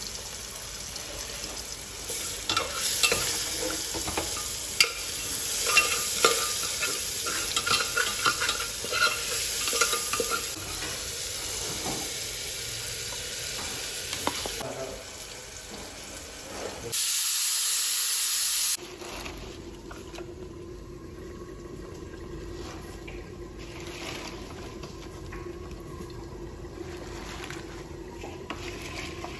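Spices and tomato frying in oil in an aluminium pressure cooker, sizzling, with a steel spoon stirring and clicking against the pot, and red lentils tipped in. About two-thirds through comes a loud, steady hiss lasting about two seconds, after which the sound drops to a quieter steady background.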